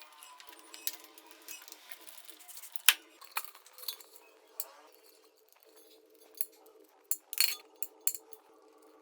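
Small metal carburetor parts and tools clinking and tapping as a motorcycle carburetor is taken apart, with scattered sharp clicks, the loudest a little under three seconds in and a cluster about seven to eight seconds in.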